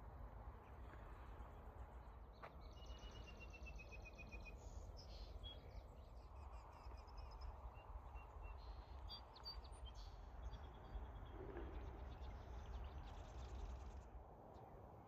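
Faint songbird song outdoors: a run of quick clear notes dropping slightly in pitch, then scattered high chirps and a short high trill near the end, over a steady low rumble of wind.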